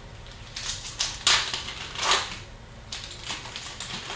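Hockey trading cards and their pack wrappers being handled during a pack opening: a string of irregular sharp clicks and rustling swishes as cards are slid and flicked through.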